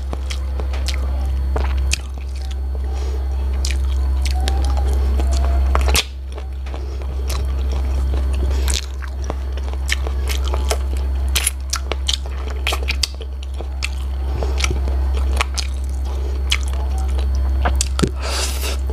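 Close-miked mouth sounds of chewing and biting into braised chicken-feet adobo: wet smacks and many sharp clicks, with a steady low hum underneath.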